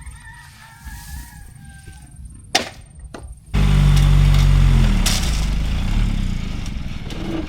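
A large truck engine, loud and running steadily, starts abruptly about three and a half seconds in. Its pitch dips a little and then rises. Before it there are only faint sounds and a couple of sharp clicks.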